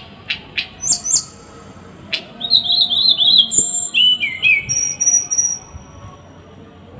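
A small songbird singing sharp, harsh call bursts: a few quick falling chips, then a rapid run of high warbled notes and a couple of held high whistles. This is the dense, rough 'shot' phrasing used as a training recording for caged songbirds.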